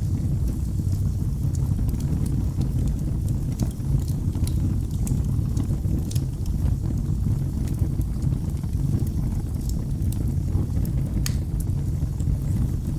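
Wood fire burning in a fireplace: a steady low rumble of the flames with scattered sharp crackles and pops at irregular moments.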